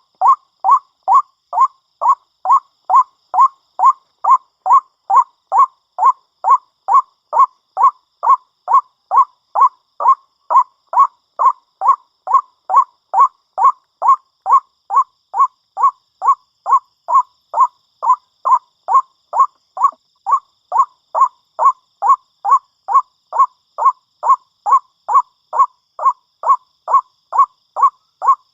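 White-breasted waterhen calling: one short note repeated evenly, about twice a second.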